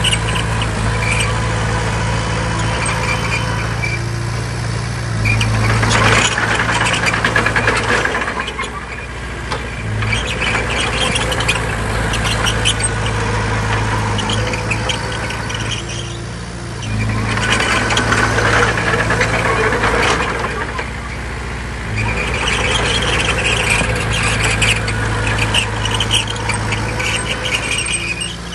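Crawler bulldozer's diesel engine running steadily under load, with high-pitched squealing and clatter from its steel tracks that swells three times as it pushes.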